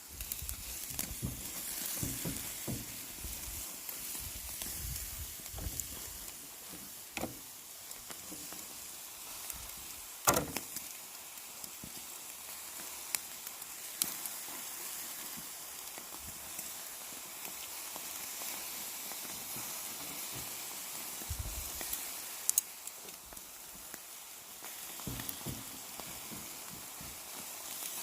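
Marinated pork bulgogi sizzling on a wire grill over charcoal: a steady hiss with scattered sharp clicks and pops, the loudest about ten seconds in.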